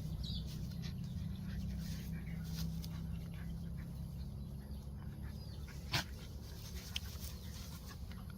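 Dogs making small sounds as they play, over a steady low hum, with a sharp click about six seconds in and a fainter one a second later.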